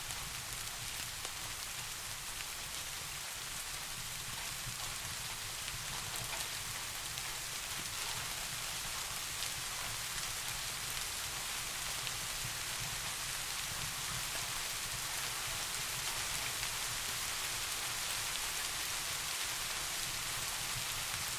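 Steady rain falling, a dense even hiss with faint scattered drop ticks, over a low steady rumble.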